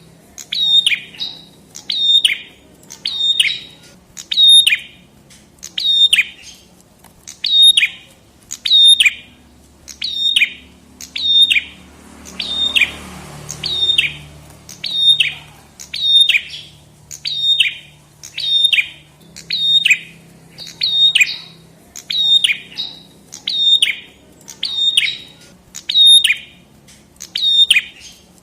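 Prenjak kepala merah songbird calling repeatedly: quick clusters of two or three sharp, high notes, each sliding down in pitch, about once a second. A brief hiss rises under the calls about halfway through.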